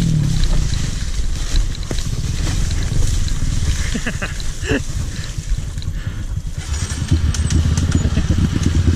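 Dirt bike engine running steadily while riding.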